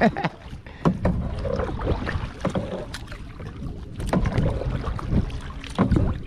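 Water sloshing against a kayak under way, with wind rumbling on the microphone and scattered small knocks and splashes.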